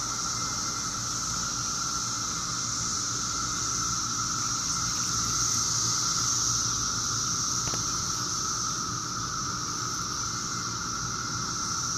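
Dense chorus of many 17-year periodical cicadas singing together: a steady, unbroken high buzzing with a lower droning tone beneath it.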